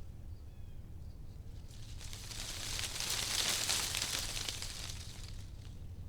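A gust of wind rustling through tree leaves, a rushing hiss that swells from about two seconds in, peaks in the middle and fades again, over a steady low rumble.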